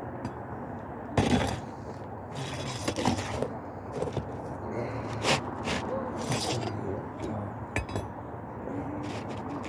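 Scattered scrapes, taps and clicks of hand work on an asphalt shingle roof, as a replacement shingle is worked into place under the existing shingles, over a steady low hum.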